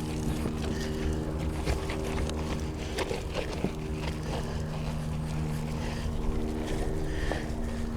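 A motor running steadily with an even hum, with scattered light clicks and knocks over it.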